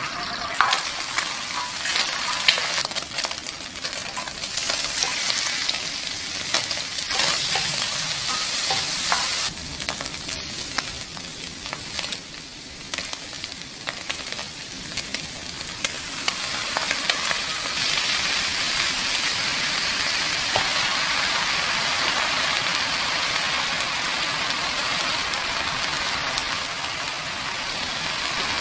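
Food sizzling in a hot oiled nonstick frying pan as egg, sliced beef and vegetables are stir-fried. Many clicks and scrapes from stirring over the first half, then a steadier, even sizzle.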